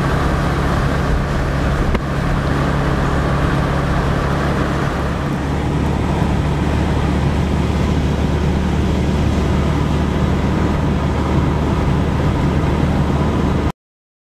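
A car engine running steadily, a low even hum with noise over it. It cuts off abruptly near the end.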